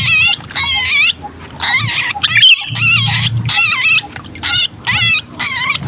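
Sooty-headed bulbul giving harsh, rapidly wavering distress cries in repeated bursts, the calls of a bulbul caught and held ('kejepit'), used as a lure call to bring other bulbuls down. A low rumbling noise runs under many of the calls.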